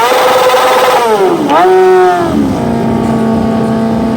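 Motorcycle engine held at high revs during a burnout: the revs dip and climb back once, then drop about two and a half seconds in to a steady, lower speed.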